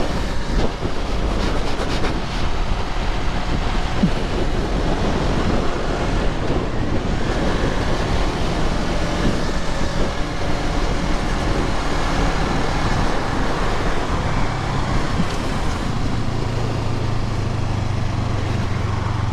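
Honda CBR250RR motorcycle engine running at speed, heard through heavy wind rush on the rider's helmet microphone. A steadier low engine note comes through near the end.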